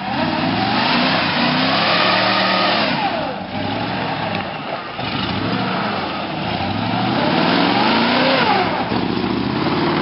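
A 1988 Ford F-150's 302 (5.0 L) V8 revving hard under load, its pitch climbing, dropping about three seconds in, then climbing again and falling near the end.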